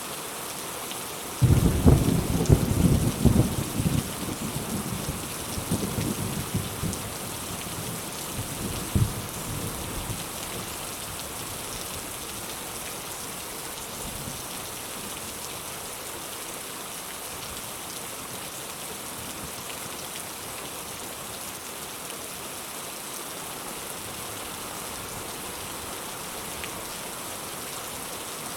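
Steady rain falling, with a thunderclap about a second and a half in that rumbles on with a few further surges and dies away after several seconds.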